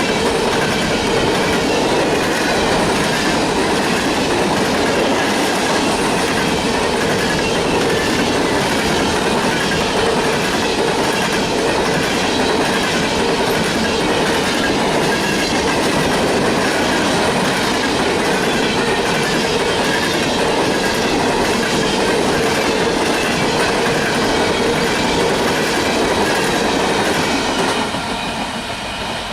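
Freight train of hopper cars rolling past: a steady rumble with the regular clickety-clack of wheels over rail joints. The noise falls away near the end.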